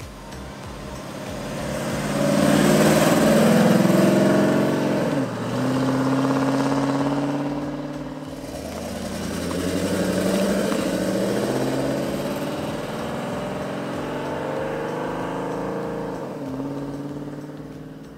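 LS6 V8 of a Camaro restomod accelerating past, the engine note rising and then dropping sharply and climbing again about five seconds in as the automatic transmission shifts up. A second shift comes near the end as the engine fades into the distance.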